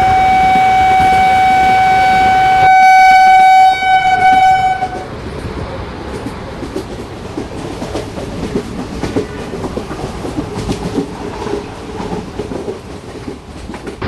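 A train horn sounds one long steady blast that grows louder and fuller about three seconds in and cuts off about five seconds in. It is followed by the clatter of train wheels running over the track as the train passes.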